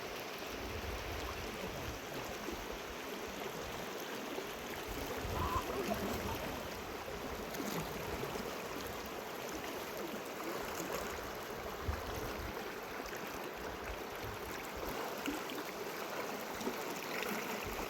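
Rushing river water, a steady even flow, with a few brief knocks.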